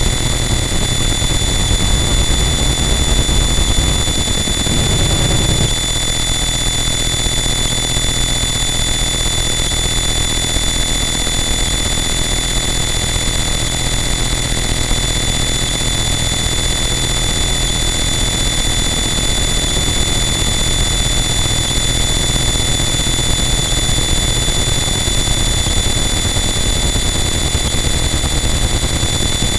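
Harsh noise wall: a loud, dense, unchanging wall of distorted noise with steady high-pitched whines over a heavy low rumble. The low end shifts to a different texture about six seconds in.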